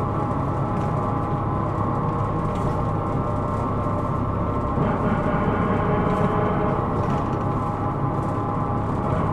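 Interior running noise of a Hino Rainbow II non-step bus under way: a low engine and drive hum with a cluster of steady, ringing high tones over it. That ringing whine is the kind of abnormal noise (異音) the recording is made to capture.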